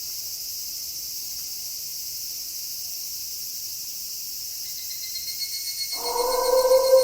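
Steady night chorus of crickets, a continuous high shrill hiss. About six seconds in, a wolf howl begins and holds on a steady pitch, quickly becoming the loudest sound.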